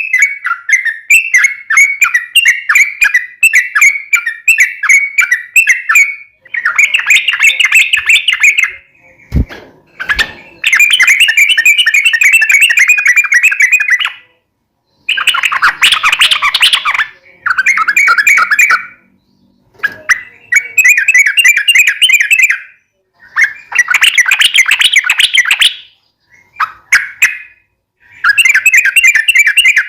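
Yellow-vented bulbul (trucukan) singing loudly in bursts of rapid, bubbly chattering notes. The phrases last one to a few seconds, with short pauses between them. A brief low thump comes about nine seconds in.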